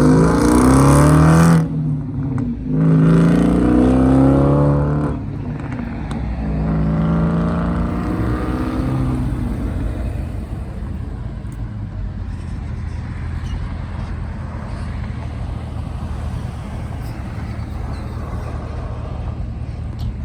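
A car accelerating hard away, its engine revs climbing in three pulls with two quick gear changes between them and fading as it drives off. After that, a steady low engine idle continues.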